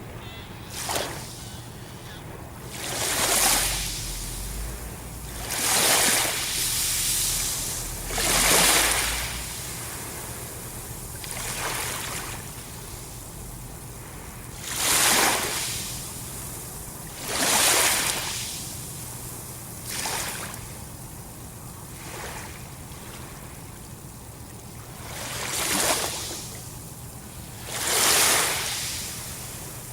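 Sea waves washing onto a shore, each surge of surf rising and falling away every few seconds, about ten in all. A faint steady low hum runs underneath.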